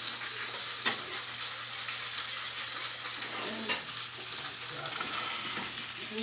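Food frying in a hot pan: a steady sizzle and crackle, with a few sharper pops.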